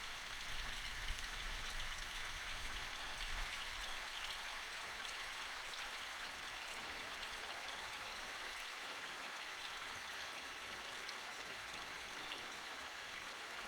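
Steady rain falling in a forest, an even patter with no tone over it.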